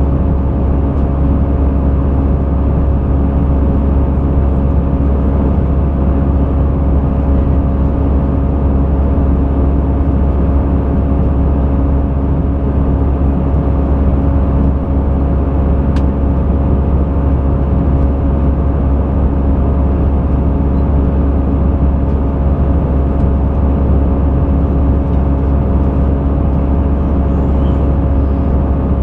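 Airbus A320 cabin noise: a loud, steady low drone from the engines and airframe, with a few steady humming tones over it.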